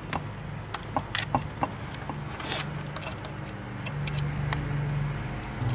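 Irregular metallic clicks and clinks of hand tools on bolts as the transmission bell housing is bolted to the engine, over a low steady hum.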